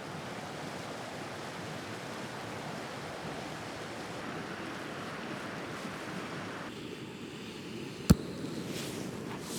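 Steady rushing of an alpine stream mixed with wind; it turns duller about seven seconds in, and a single sharp click sounds just after eight seconds.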